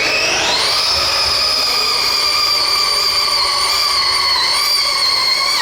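Radio-controlled pulling vehicle's motor running at full throttle during a pull: a high whine that rises in pitch over the first second, then holds steady with a slight dip near the end.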